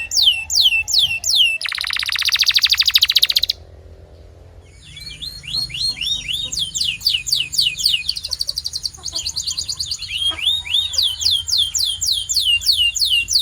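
Canary singing: runs of quickly repeated falling notes, then a fast buzzy trill about two seconds in. After a brief lull the song resumes with varied notes over a long high steady whistle, and ends in more repeated falling notes.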